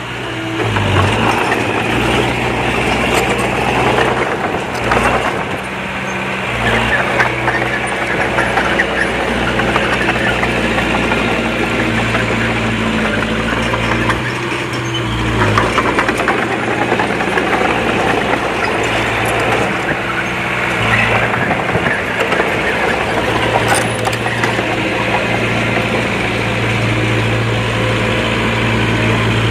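Komatsu D20P small bulldozer's diesel engine running steadily at work, its note shifting with load, over the continuous clatter of its steel tracks.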